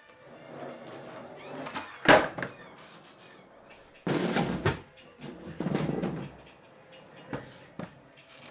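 Skateboard rolling, then a sharp board impact about two seconds in, followed by heavier board thuds and clatter, with a couple of short clacks near the end.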